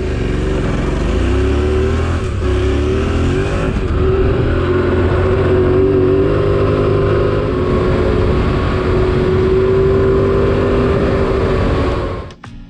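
Motorcycle engine running under way, its pitch rising and falling with the throttle for the first few seconds, then holding a steady note over wind and road noise. It cuts off suddenly near the end.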